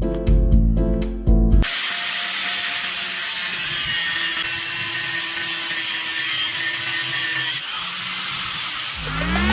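A power tool, an angle grinder with a cut-off disc, running steadily as it cuts through a steel coil spring to shorten it; background music plays before it starts and returns near the end.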